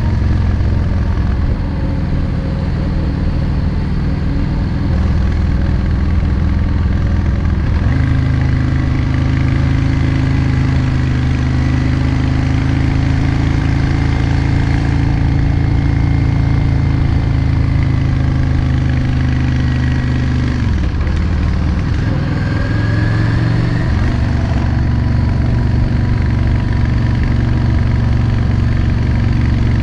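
Yamaha XVS 650 Drag Star's V-twin engine running while riding on the road. The engine note steps up about eight seconds in, drops away around twenty-one seconds, and pulls up again a few seconds later.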